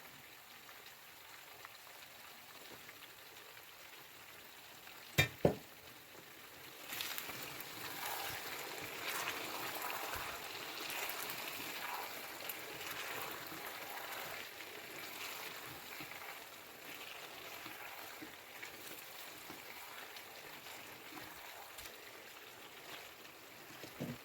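Chicken curry gravy sizzling and frying in the pan. It is quiet at first, with two sharp knocks about five seconds in. The sizzle starts about seven seconds in and slowly fades.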